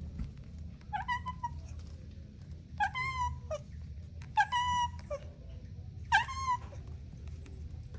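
A kitten meowing four times, short high-pitched meows spaced a second or two apart.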